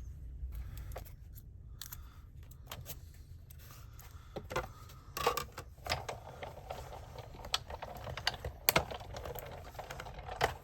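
Paper being handled and positioned on a craft table: scattered light clicks, taps and rustles, growing busier about halfway through.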